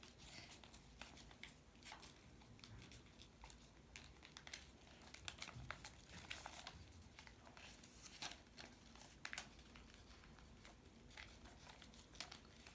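Faint, irregular rustling and crinkling of a folded A4 paper sheet as the creases of a paper airplane's wings are pressed down hard.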